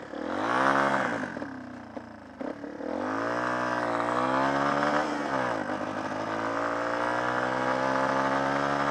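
Small off-road motorcycle engine revving up and dropping back a few times as the bike pulls away, then running at a fairly steady speed for the last few seconds.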